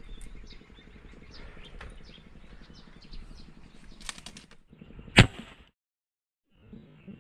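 Small birds chirping, many short falling chirps. A few clicks follow, then a single sharp knock about five seconds in, the loudest sound, after which the sound cuts out for about a second.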